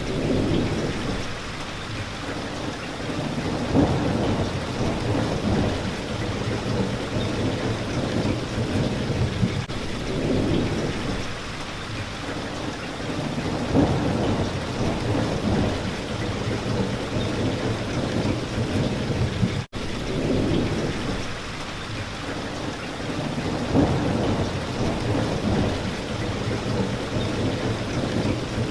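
Steady rain pattering on a window, with low thunder rumbling and swelling and fading every few seconds. The sound cuts out for an instant about twenty seconds in.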